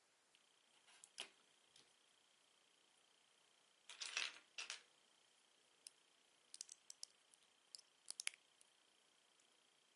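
Plastic Lego bricks being handled: a short clatter about four seconds in, then a run of light clicks and taps between about six and eight seconds in.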